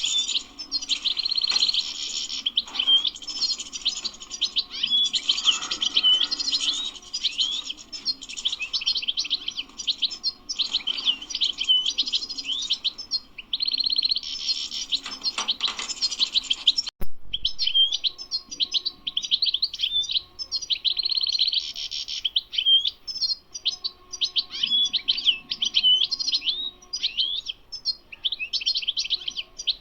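European goldfinch singing, a continuous fast twittering song of rapid chirps and trills, broken by a sharp click and a brief pause partway through.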